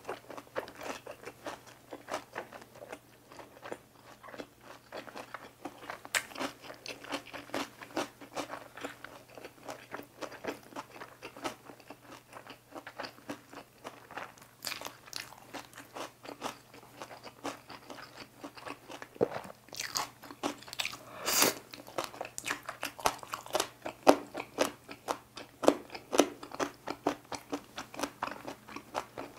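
A person chewing crunchy food close to a clip-on microphone: a rapid run of crunches, busier and louder about two-thirds of the way through.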